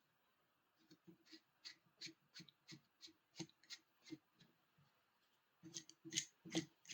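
Faint short scraping strokes at the screw threads of a bar clamp, about three a second, then a quicker cluster near the end, as dried dirt is cleaned out of the threads.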